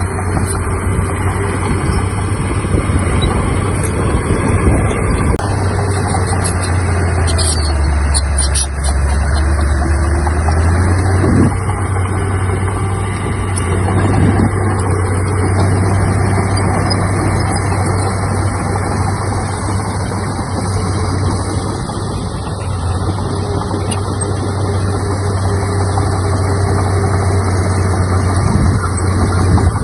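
Heavy diesel earthmoving machinery running steadily. Its low engine hum drops lower for a few seconds about eight seconds in, then comes back up.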